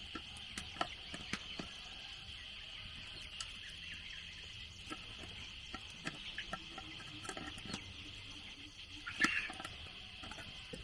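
Steady high insect drone, with scattered light clicks and taps and a short louder call about nine seconds in.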